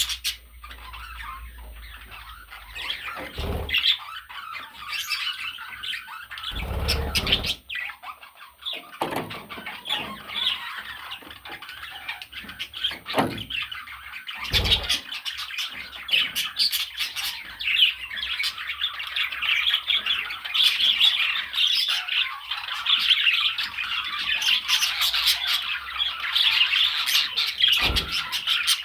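Pet budgerigar chattering and squawking, a busy, near-continuous warble that grows denser in the second half. A few short low thumps come through, the first two about 3 and 7 seconds in.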